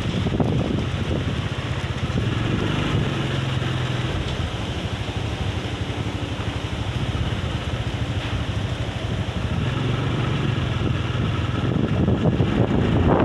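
Strong wind buffeting the microphone, heard as a loud, steady low rumble with hiss.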